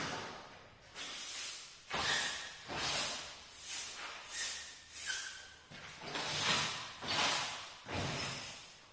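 A broom sweeping a floor: about ten swishing strokes, a little under a second apart.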